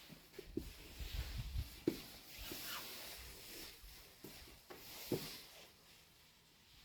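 A few soft knocks and thumps scattered over faint rustling handling noise, the loudest about two seconds in and just after five seconds.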